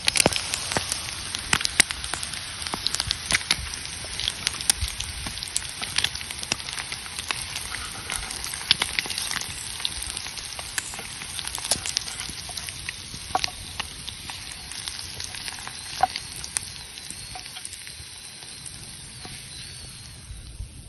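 Food sizzling and frying in a pan over a campfire, a steady hiss with frequent sharp pops and crackles.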